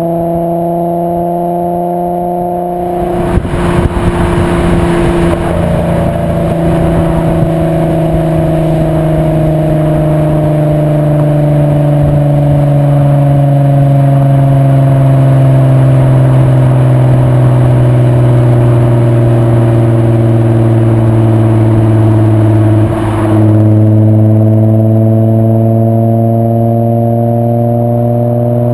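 VW 2.8 VR6 24V engine running under way through a straight-through Milltek non-resonated exhaust, a loud, steady multi-toned drone. About 3 s in it turns louder and rougher as the throttle opens, and near the end it dips briefly, drops in pitch and then climbs again.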